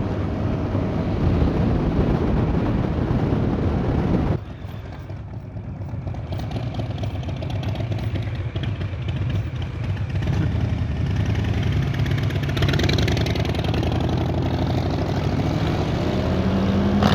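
Harley-Davidson Sport Glide's Milwaukee-Eight 107 V-twin running on the road, a deep steady rumble. It drops away suddenly about four seconds in, then builds back slowly, and the revs climb right at the end.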